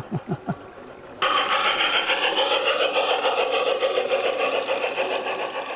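A garden-scale model train running along its track: a steady mechanical whir and rattle of motor and wheels that starts abruptly about a second in and begins to fade near the end.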